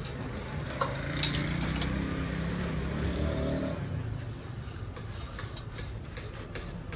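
A vehicle engine running close by, swelling and then fading over a few seconds, with a couple of sharp metallic clicks near the start.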